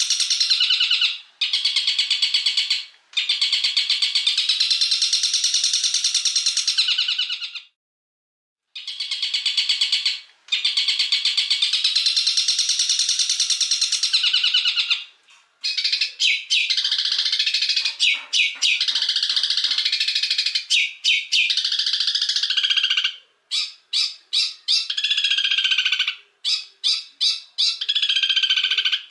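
Songbird tutor recording (masteran) of caged songbirds singing: long runs of dense, fast chattering song, broken by a silent gap of about a second a quarter of the way in. From about halfway it turns into strings of sharp, short repeated notes with brief breaks between them.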